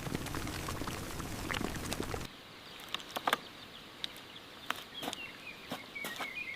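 Rustling and light taps, then, after an abrupt change about two seconds in, scattered sharp clicks. Toward the end comes a high, wavering chirping call, like a small bird.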